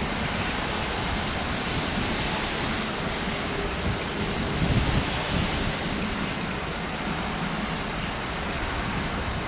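Steady rain, with a low uneven rumble underneath.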